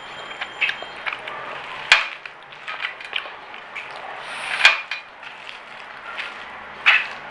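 Close-up eating sounds: chewing and crunching of crispy fried food, with many small crackles and three sharper, louder clicks, about two seconds in, midway and near the end.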